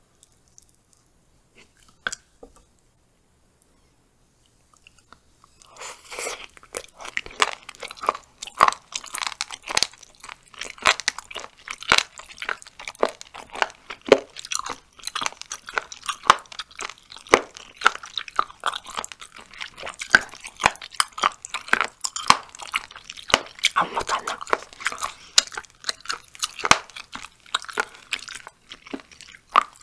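Close-miked chewing of raw, deboned chicken feet: crisp, crunchy bites with wet, clicking mouth sounds in a dense, irregular run. It starts about six seconds in, after a few quiet seconds broken by a faint click.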